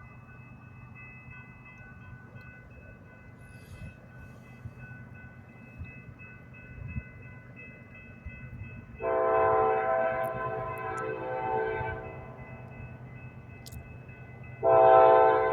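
Freight train's locomotive air horn sounding a long chord blast about two-thirds of the way through, then a second blast starting just before the end, over the low rumble of the approaching train.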